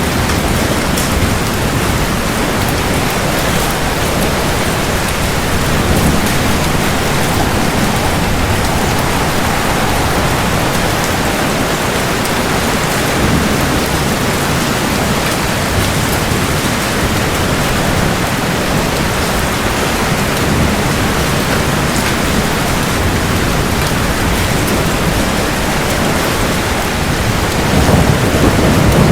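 Steady heavy rain with low rolling thunder underneath. A louder thunder rumble builds near the end.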